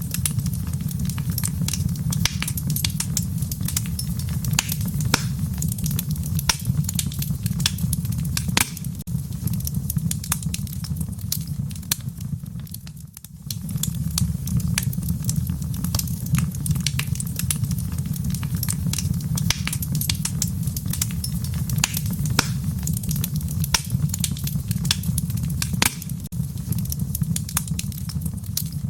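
Wood fire crackling in a fireplace: irregular sharp pops and snaps over a steady low rumble. The sound dips briefly near the middle, then resumes.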